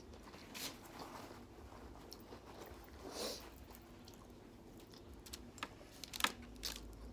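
Close-miked quiet chewing of a mouthful of Chipotle salad with fajita veggies and meat, with small wet crunches and mouth clicks. A few sharper clicks come about six seconds in.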